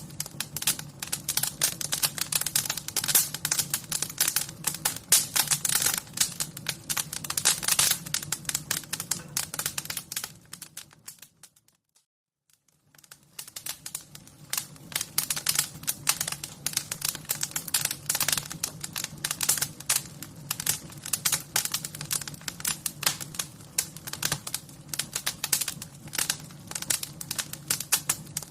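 Wood fire crackling: dense, irregular pops and snaps over a low steady rumble. The sound fades to near silence about eleven seconds in and fades back up a couple of seconds later.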